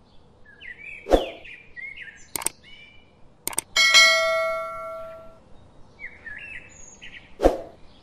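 Subscribe-button sound effect: two quick clicks, then a bell-like ding that rings on for about a second and a half. Small birds chirp throughout, and there is a sharp thump about a second in and another near the end.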